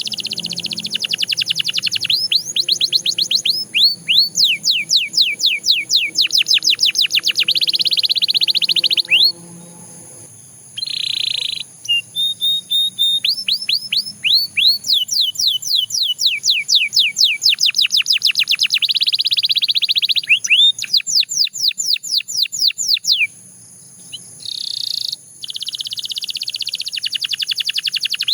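Canary singing a long, loud song of fast trills, made of rapid falling sweeps repeated many times a second, with denser buzzing rolls between phrases. The song breaks off briefly twice.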